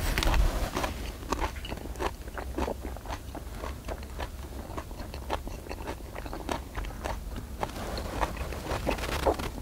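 Close-miked chewing of spicy marinated pork and vegetables: wet, crunchy chewing with irregular clicks several times a second. A steady low rumble sits underneath.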